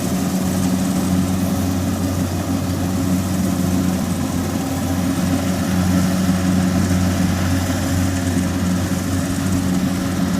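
Kubota DC60 combine harvester's diesel engine running at a steady speed, with no change in pitch.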